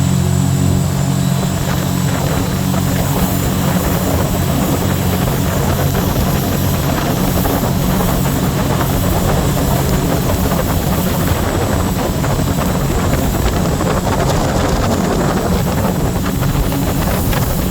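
Jet boat underway: its Rotax 1503 4-TEC three-cylinder engine and jet drive running steadily at speed, under a loud, even rush of wind and water.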